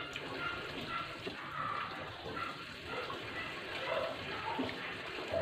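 Wet, juicy chewing and slurping of dalandan (Philippine sour orange) segments, with small irregular smacking sounds.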